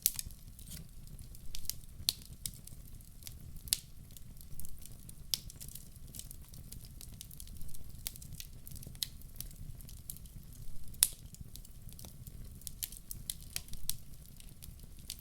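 Wood logs burning in a fireplace: a steady low rumble of flame with irregular crackling and sharp pops, the loudest snap about 11 seconds in.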